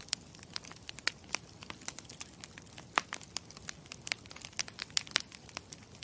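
Campfire crackling: irregular sharp pops and snaps, several a second, over the low steady rumble of the burning fire.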